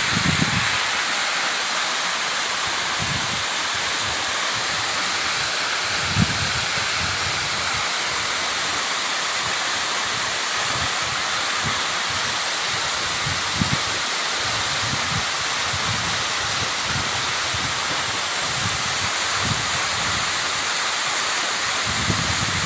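Waterfall: a steady, unbroken rush of falling water, with brief low rumbles now and then.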